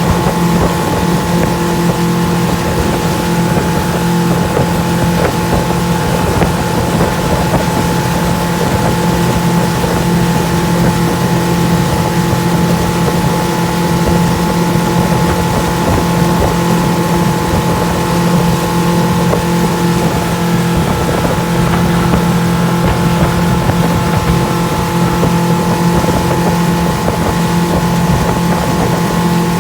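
Motorboat engine running at a steady, unchanging speed, with a constant hum over a noisy rush of wind and water.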